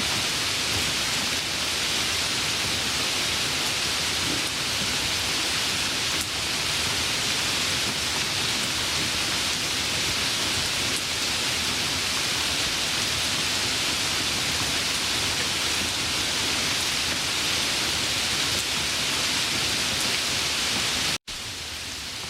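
Steady, even rain. About a second before the end it cuts out for an instant and returns quieter, as at a splice between two recordings.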